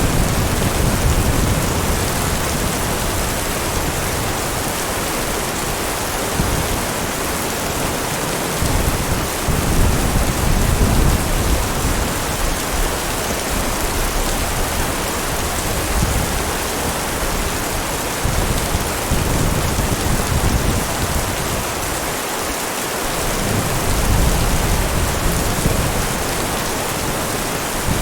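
Heavy rain falling in a steady hiss, with low rumbles of thunder swelling up three times.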